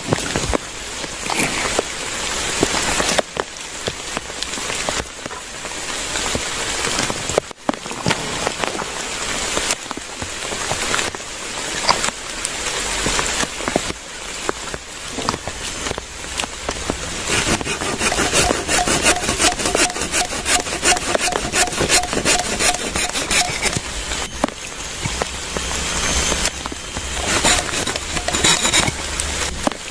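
Wood being cut by hand, with repeated rasping strokes that come thicker and faster in the second half, and rain falling.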